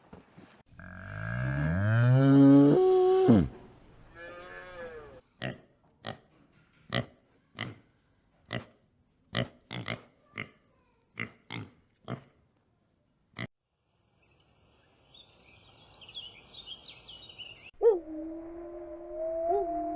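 A series of animal sounds: a long, loud pitched call rising in pitch, then a weaker call, then about a dozen sharp irregular clicks. High chirps follow briefly, and near the end a steady call holding two tones begins.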